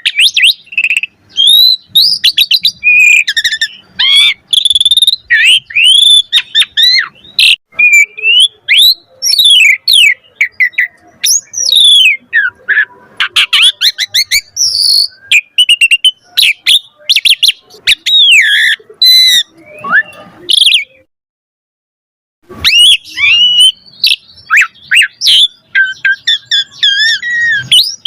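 Asian pied starling (jalak suren) singing a long, varied song of whistled glides, rapid chatters and harsher squawky notes, broken once by a pause of about a second and a half about two-thirds of the way through.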